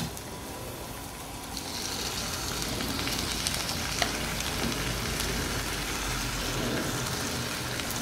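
Tomato slices sizzling in hot fat in a frying pan, the sizzle growing louder about a second and a half in as more slices are laid in, with a light tap about four seconds in.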